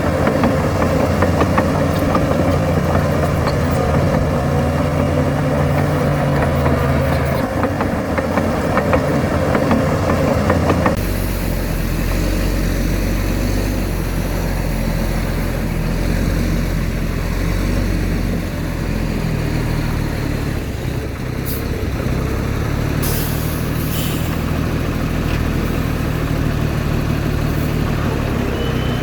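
Heavy diesel engines of earthmoving machinery running steadily. About eleven seconds in the sound changes abruptly to a deeper, lower rumble.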